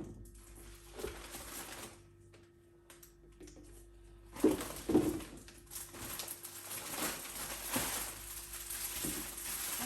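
Plastic packaging crinkling and rustling as small plastic kitchen items are unwrapped and handled, with a few sharp knocks, two of them about half a second apart near the middle; the rustling becomes steady in the second half.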